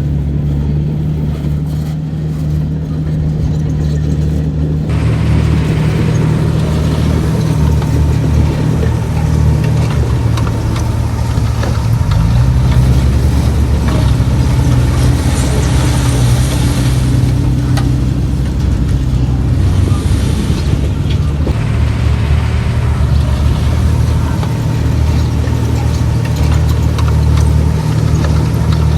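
Heavy diesel engine of earth-moving equipment running steadily under load. A harsher, hissier layer comes in abruptly about five seconds in.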